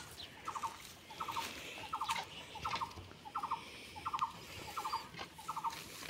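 A bird calling a short stuttering note of a few quick pulses over and over, evenly about one and a half times a second, steady in pitch.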